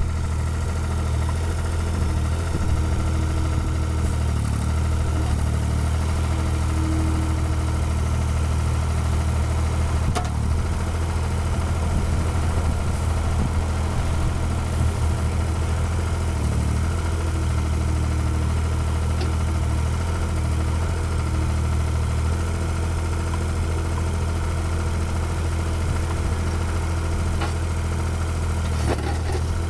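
Engine of a Cat mini excavator running steadily at a constant low speed, like an idle, with no revving.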